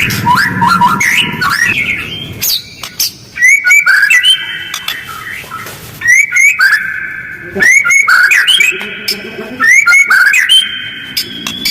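White-rumped shama (murai batu) singing: loud bursts of fast whistled phrases with quick upward slurs and rough notes, separated by short pauses, used as a lure song to provoke other shamas.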